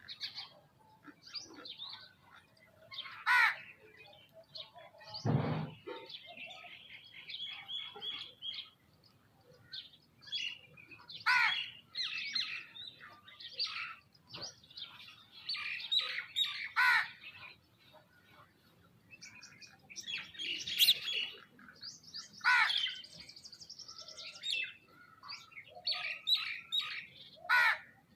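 Birds chirping and calling over and over at a feeding spot, with several louder calls that fall in pitch. A single dull thump comes about five seconds in.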